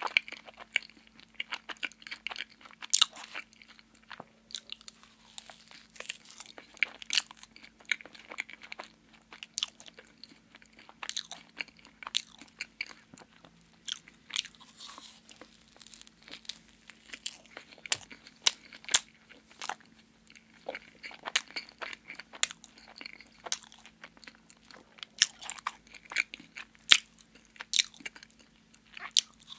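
Close-miked eating of soft glazed donuts: biting and chewing, with many sharp, irregular mouth clicks.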